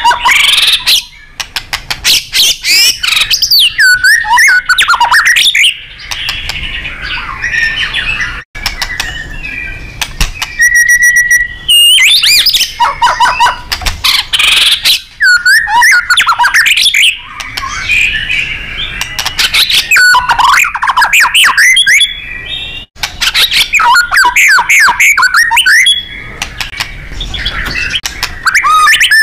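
White-rumped shama (murai batu) singing loudly and without pause: fast whistled phrases that swoop up and down, rapid rattling trills and sharp chattering notes, with one briefly held whistle about eleven seconds in.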